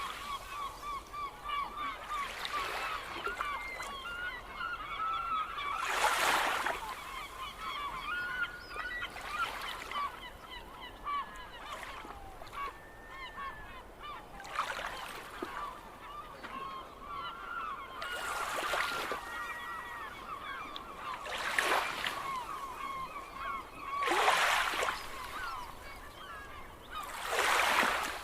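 A flock of gulls calling continuously, with many short overlapping cries. Waves break on the shore in surges about every three seconds.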